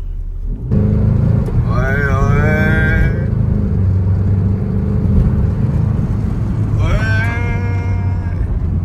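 A car running on the road, its steady low engine and road rumble starting abruptly about a second in. Twice over it comes a long drawn-out voice-like tone that rises and falls.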